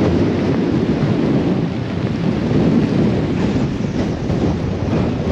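Gale-force storm wind buffeting the microphone: a loud, continuous rumbling roar.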